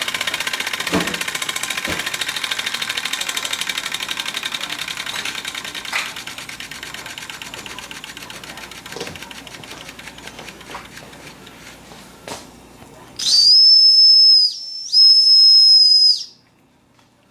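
Small steam engine running with a fast, even beat that slowly fades away, with a few sharp clicks. Then two loud, high, steady whistle blasts of over a second each come near the end.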